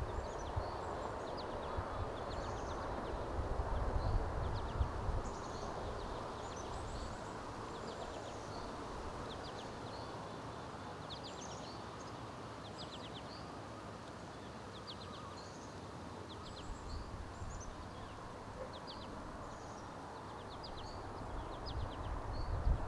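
Several songbirds chirping and singing in short, repeated high notes over a steady hiss of outdoor ambience. Low wind rumbles on the microphone come about four seconds in and again near the end.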